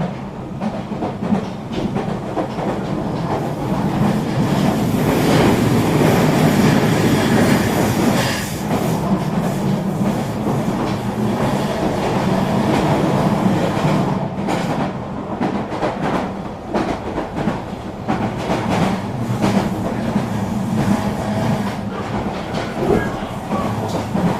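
Eurobahn regional express train running on the rails: a continuous rolling rumble with the wheels clicking over the track, swelling louder for a few seconds about four seconds in.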